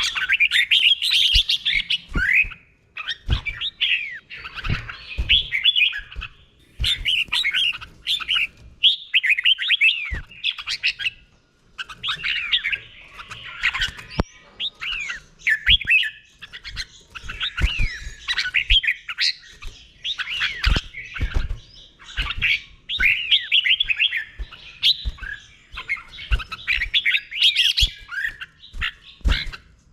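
Red-whiskered bulbul singing, run after run of quick rising and falling whistled phrases with short pauses between them. Sharp low knocks sound here and there under the song.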